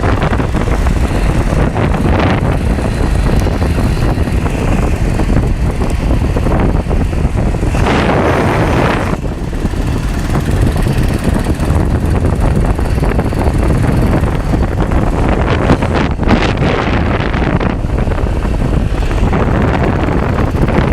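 An engine running continuously, a dense noisy sound heaviest in the low end, with a brief brighter, louder rush about eight seconds in.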